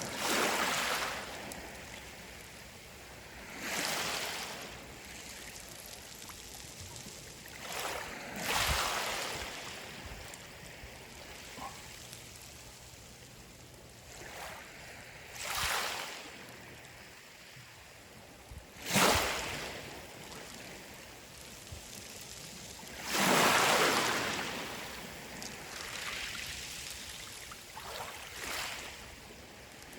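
Sea waves washing in over a pebble beach, a hiss that swells and falls away in surges every few seconds, the loudest about two-thirds of the way through.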